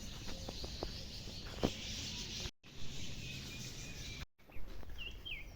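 Outdoor ambience with a steady high hiss and a few short chirping bird calls near the end. The sound drops out completely for a moment twice.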